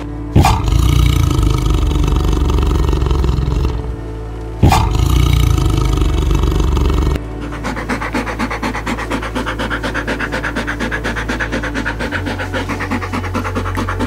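A large animal gives two loud roaring calls, each a few seconds long, then a quicker pulsing call at about four pulses a second, over background music.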